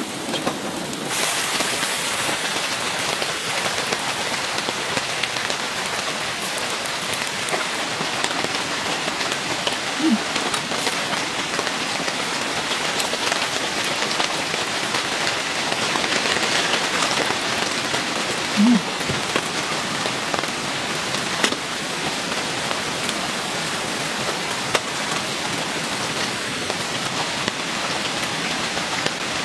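Steady rain falling on a tent. Two brief low pitched sounds break through, about ten and nineteen seconds in.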